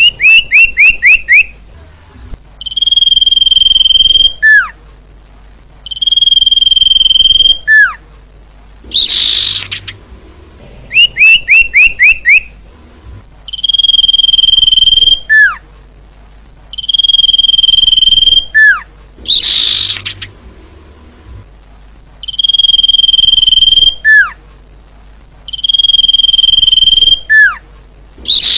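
Common iora (cipoh/sirtu) song played as a looped training recording. It has a quick trill of about five down-slurred notes, long steady whistles each held over a second, short falling notes between them, and a harsh rasping note. The whole sequence repeats roughly every ten seconds.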